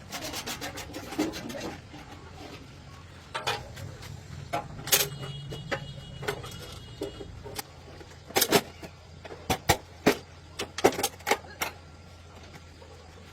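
Irregular metallic clicks and knocks, like hand tools striking and handling metal parts, one ringing briefly about five seconds in, over a low steady hum.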